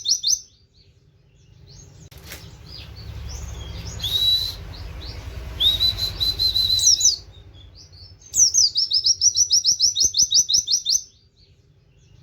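White-eye (pleci) singing in fast runs of repeated high chirps, about eight a second, in the canary-like 'wit wit' style: a short run at the very start and a longer one from about eight to eleven seconds in. Between the runs come softer scattered chirps and two held whistles.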